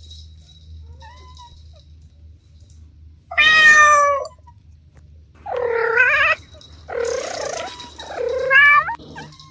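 Kittens meowing: a few faint high mews, then four loud, drawn-out meows in the second half.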